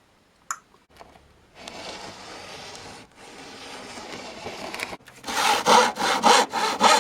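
Hand saw cutting through a wooden board. It starts as a steady rasp, then from about five seconds in turns to louder back-and-forth strokes, about three a second.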